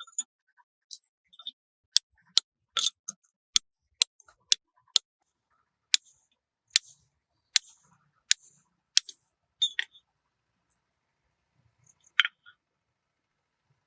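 A series of sharp, irregular taps and clicks with silence between them, most of them coming in the middle of the stretch and one loud one near the end.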